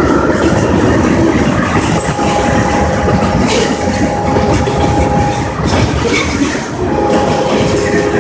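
Freight train tank cars rolling past at close range, the loud steady noise of wheels on the rails. A thin steady tone comes in about two seconds in, drops out, and returns near the end.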